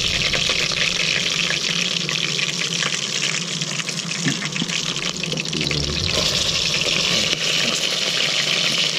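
Fish frying in hot oil, with a steady sizzle and crackle.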